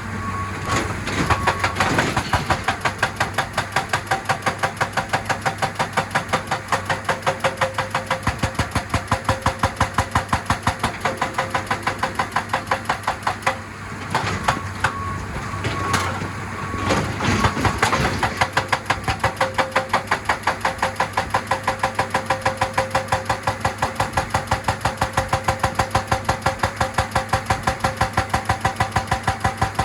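Excavator-mounted hydraulic rock breaker hammering rock in a fast, even rhythm of blows over the running engine, pausing briefly about midway before hammering on.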